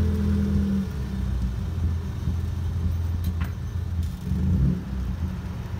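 1997 Mitsubishi Lancer's engine running low and steady as the car rolls slowly into a parking spot, its pitch rising slightly in the first second.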